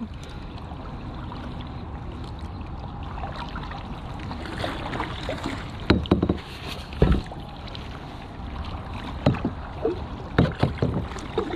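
Kayak paddling: paddle strokes splashing in the water, with several sharp thumps in the second half, over a steady rush of water and wind.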